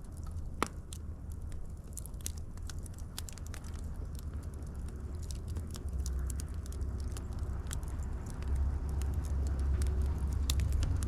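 Wood fire crackling, with irregular sharp pops and snaps over a steady low rumble; one louder pop comes about half a second in, and the rumble grows louder in the second half.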